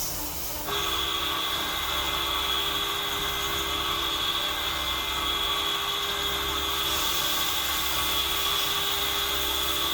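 CNC machine cutting a steel part: a steady, high whine over a hiss that starts about a second in.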